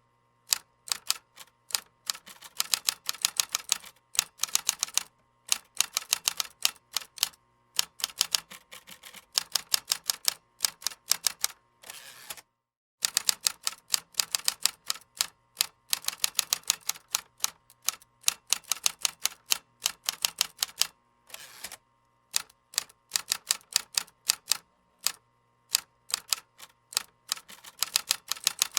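Computer keyboard typing: fast runs of crisp key clicks broken by short pauses, with a brief stop about twelve seconds in.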